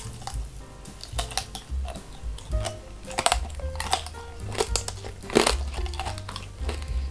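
Biting into and chewing a tanghulu strawberry, its hard glassy sugar shell cracking crisply at the first bite and then crackling and crunching irregularly between the teeth, over background music.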